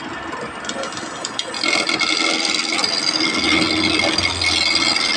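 A tool working on wood, a steady scraping and rasping that gets louder about a second and a half in.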